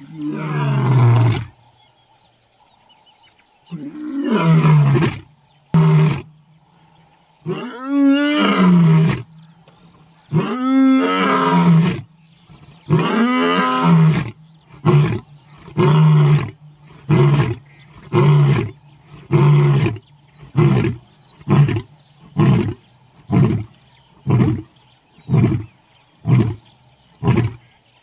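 Lion roaring bout: several long, loud, deep roars, then a series of short grunts repeated a little more than once a second that trail off.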